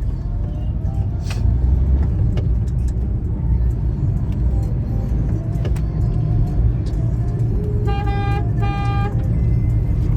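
Steady low road and engine rumble of a car driving, heard from the moving vehicle. Near the end a car horn sounds twice in two short honks.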